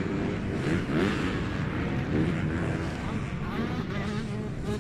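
Several motocross bikes racing, their engines revving up and down as they work through the course; overlapping rising and falling engine notes.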